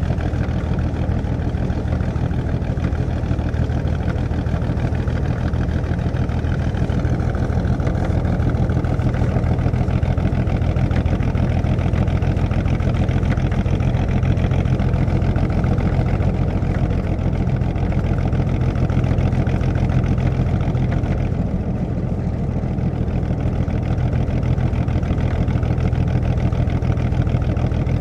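1937 Plymouth's flathead six-cylinder engine running steadily, heard from inside the car's cabin. The engine note eases about three-quarters of the way through.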